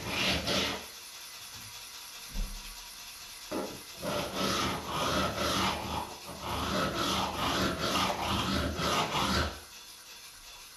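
Steel scissor blade rubbed back and forth on a diamond lapping plate: a rasping scrape at the very start, then a run of continuous scraping strokes from about four seconds in that stops shortly before the end.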